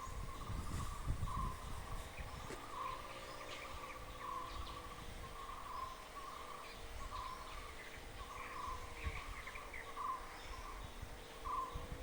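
A bird calling outdoors, repeating a short note about once a second, with fainter chirps from other birds and a low rumble in the first second or so.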